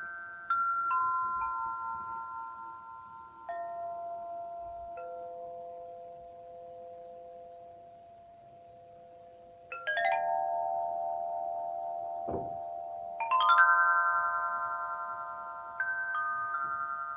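Suspended metallophone (daiva) played with struck notes that ring on and overlap with long sustain. Single notes fade almost away about eight seconds in, then several bars are struck together around ten and again around thirteen seconds in, with a soft low thud between them, and a few more single notes near the end.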